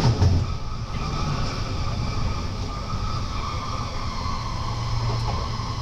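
Intercity passenger train running through a tunnel, heard from inside the coach by the door: a steady low rumble of wheels on rail with a steady high whine over it. There is one heavy thump about a quarter second in.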